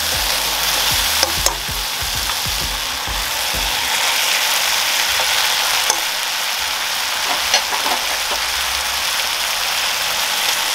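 Sautéed onions and tomatoes sizzling in a frying pan as raw ground pork is added and stirred in with a spatula. A few sharp clicks of utensils against the pan sound over the steady sizzle.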